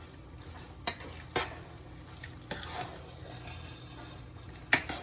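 A spoon stirring and scraping through a pot of spaghetti with meat sauce and melting cheese, with a few sharp clinks of the utensil against the pot: about a second in, again half a second later, and near the end. A low steady hum runs underneath.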